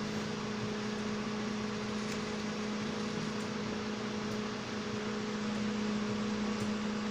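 Microwave oven running, a steady hum with a fan's even whoosh, heating a cup of water. It is working again after a repair of a no-heat fault.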